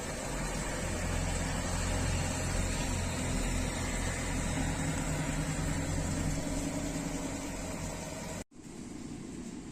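Steady rain hiss with a motor vehicle's engine running nearby, a low steady hum. About eight and a half seconds in, the sound cuts out abruptly for a moment and returns as a quieter hiss without the engine.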